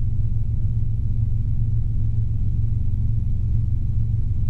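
Robinson R22 helicopter in cruise flight heard from the cabin: its piston engine and rotors make a steady low drone.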